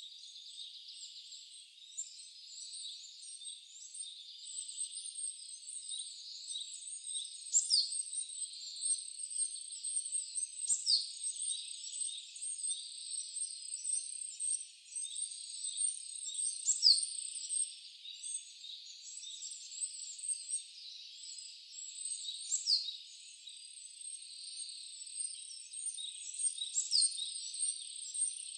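Wild songbirds chirping in a dense, high-pitched twitter over a soft hiss of running water. A sharp whistle that slides steeply downward in pitch cuts through five times, every four to six seconds.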